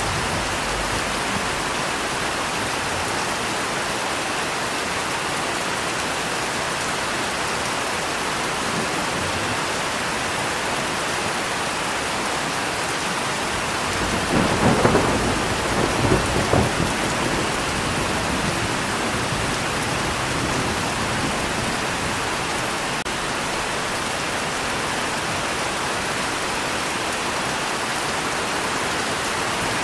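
Steady rain falling, with a thunderclap and rumble about halfway through that swells twice before fading back into the rain.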